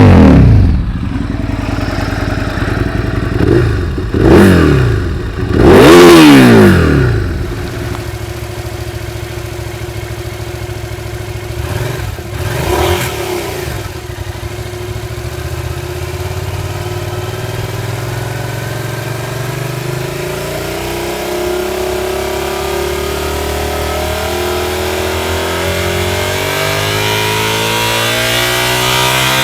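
Motorcycle engine through a loud exhaust, revved in three quick throttle blips that rise and fall back to idle, then idling steadily. Near the end the engine note slowly climbs in pitch.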